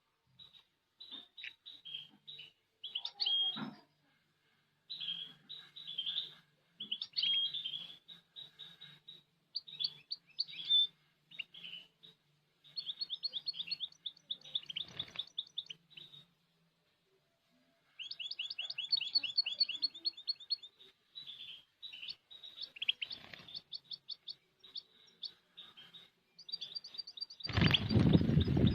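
European goldfinch singing: phrases of quick twittering chirps and trills, broken by a short pause about two-thirds through. Near the end a loud rustling noise lasting about a second drowns the song.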